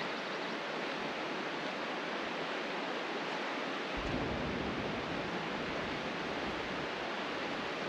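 Steady rushing noise with no distinct events. A low rumble joins it about halfway through.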